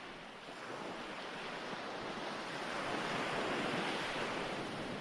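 Recorded ocean waves washing onto a shore, a steady surf wash that dips just after the start, then swells to a peak about three quarters of the way through and begins to recede.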